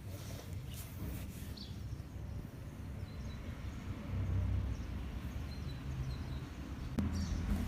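Outdoor background noise: a low steady rumble, with a few faint bird chirps and a single sharp click about seven seconds in.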